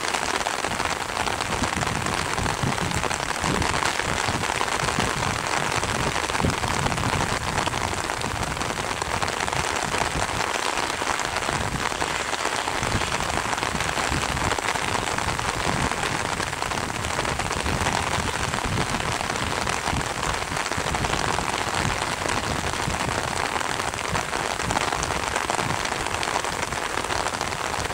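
Steady rain, with drops striking an umbrella held close to the microphone.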